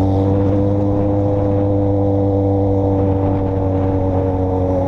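A vehicle's engine running steadily at a constant speed, a loud hum whose pitch sags slightly over the few seconds.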